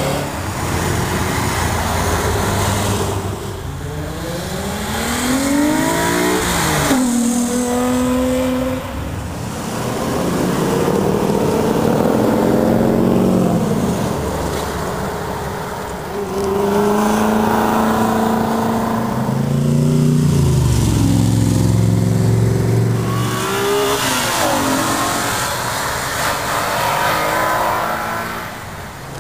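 A series of performance cars accelerating hard one after another, each engine revving up with a rising pitch that drops back at the gear changes and climbs again.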